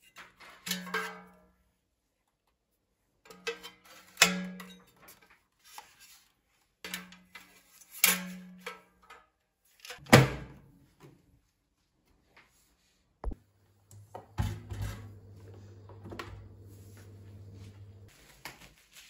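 Four sharp knocks, as of things set down on a hard surface, some with a brief ring. A click follows, then a steady low hum of a small motor for about four seconds before it stops.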